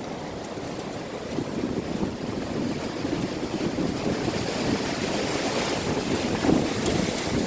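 Strong gusting wind in a windstorm, buffeting the microphone with a low rumble and getting louder in the second half.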